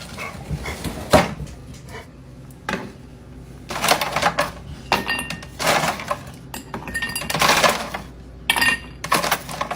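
Dishes and metal utensils clattering: a run of irregular knocks and clinks about a second apart, some ringing briefly.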